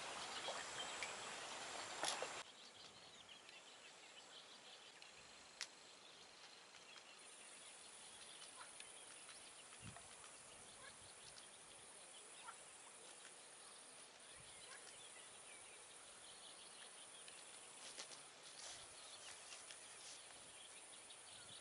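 Faint lakeside evening ambience: scattered soft bird chirps over a steady high insect sound that comes in about a third of the way through. A somewhat louder noise fills the first two seconds and a single click sounds once.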